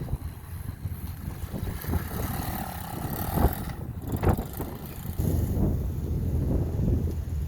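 SSR 110 pit bike's small four-stroke engine running, with wind buffeting the microphone. The engine note stands out more clearly between about two and three and a half seconds in.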